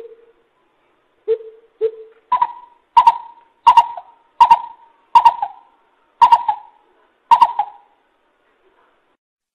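Greater coucal calling: a series of deep, hollow hoots. A few lower notes come first, then several higher hoots follow at even spacing, roughly one every 0.7 s, ending about 8 s in.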